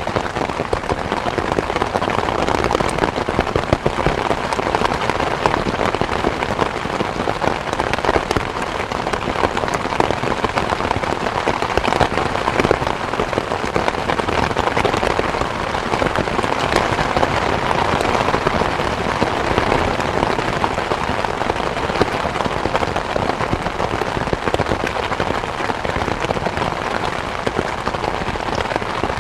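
Steady rain falling, a dense, even patter of countless drops with no let-up.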